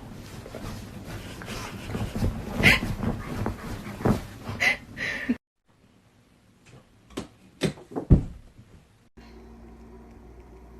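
Dog sounds with a few sharp high cries over household noise. This is followed by a quieter stretch with a few sharp knocks, then a low steady hum, as short clips cut from one to the next.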